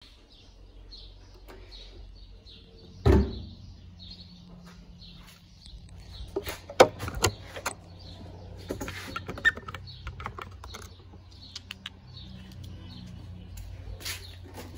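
A heavy thump about three seconds in, then scattered clicks and knocks of parts being handled, over a steady low hum. A bird chirps over and over in the background.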